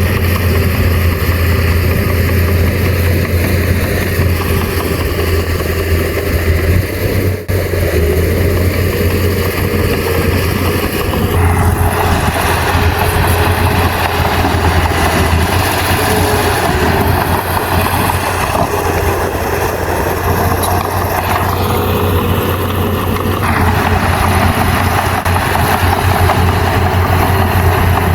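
Heavy earthmoving machine's diesel engine running steadily with a deep hum. A louder, harsher noise joins from about eleven seconds in and drops away again about twenty-three seconds in.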